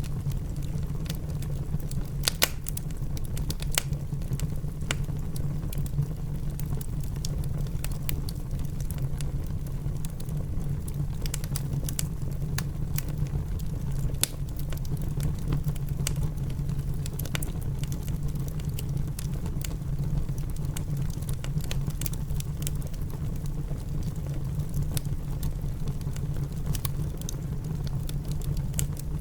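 Wood fire crackling in a fireplace, with scattered sharp pops, over a steady low rumble of rain.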